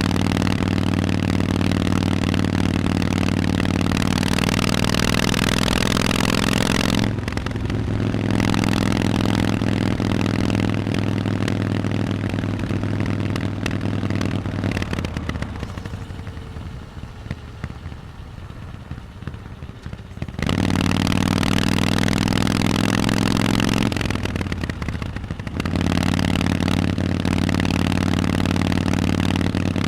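Harley-Davidson Forty-Eight's air-cooled 1200 cc V-twin running through Vance & Hines exhausts while being ridden. It pulls steadily with two brief dips in level, one about a quarter of the way in and one near the end, and a longer quieter stretch in the middle as the throttle is eased off, before it picks up again.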